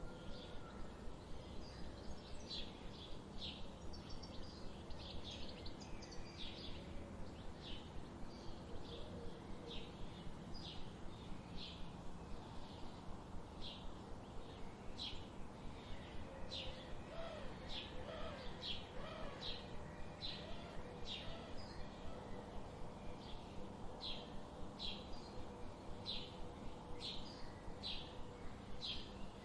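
Birds singing: one bird repeats short, high chirps about once a second, over a steady background hiss, with a few fainter, lower warbled notes about two-thirds of the way through.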